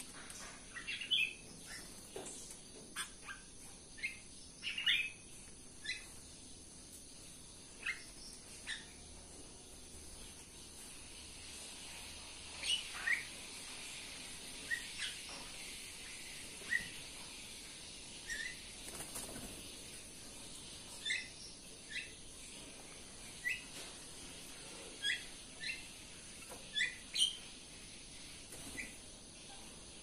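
Small caged birds giving short, high chirps, singly or in quick pairs at irregular intervals, over a faint steady high hiss.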